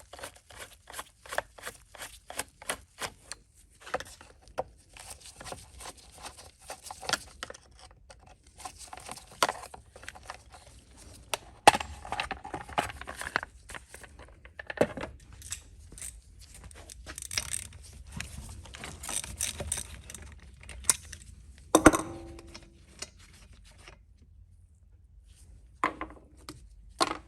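Hand tools and small metal parts clicking and clinking while the spark plug of a chainsaw is being reached, with a run of evenly spaced ticks early on. Two sharper metal knocks come about halfway and near the end; the second rings briefly.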